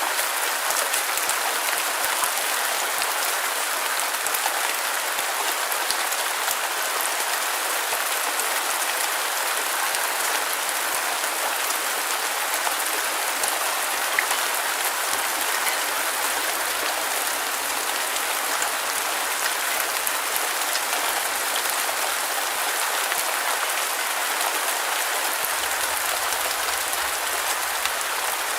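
Steady rain falling on a hard surface, an even hiss with scattered drop ticks.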